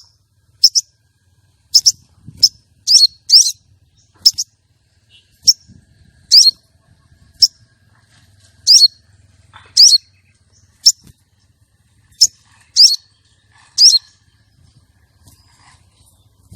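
Female sogon calling: a series of short, sharp, high chirps, some sliding down in pitch and some in quick pairs, about one a second. This is a call used to lure male sogon and bring them into breeding condition.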